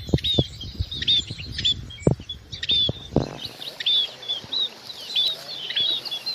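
Munias calling: many short, high, arched chirps, two or three a second, overlapping as from several birds. A few low thumps sound in the first half, the loudest about two and three seconds in.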